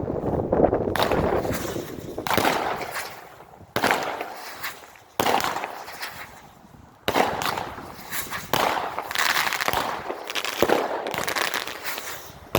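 Phantom Eye of the Storm 16-shot 200-gram firework cake firing: a rapid series of loud shots and aerial bursts, one every second and a half or so, each fading out before the next.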